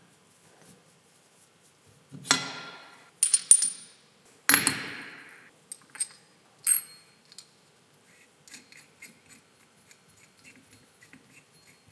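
Metal parts and tools clinking and knocking on a workbench. A few sharp, ringing metallic strikes come about two to five seconds in, followed by lighter clicks and taps.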